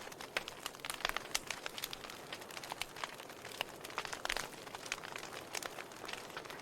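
Burning logs in a wood fireplace crackling and popping, many irregular sharp snaps over a soft steady hiss.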